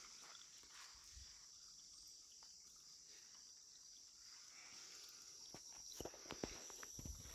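Faint, steady high-pitched chorus of insects trilling in the woods. A few soft clicks come near the end.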